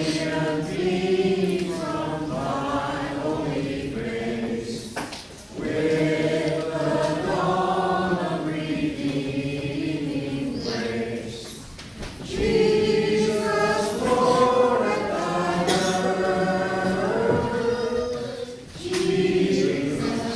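Congregation singing a Christmas carol a cappella, many voices together in phrases of a few seconds with short pauses for breath between them.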